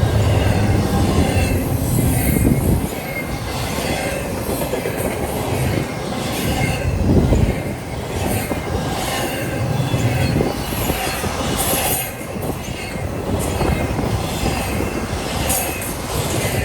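A train rolling past with steady rail noise, its wheels squealing on and off above the rumble.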